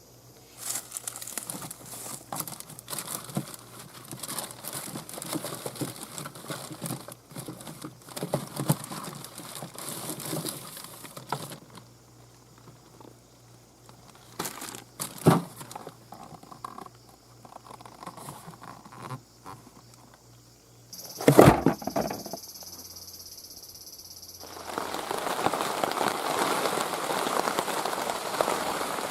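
Hand-tool work on a car's crank pulley bolt, with a pry bar wedged in the flywheel teeth: irregular clicks, scrapes and rustling, a sharp knock about halfway, and a loud clank a little past two-thirds of the way. A steady hiss starts near the end.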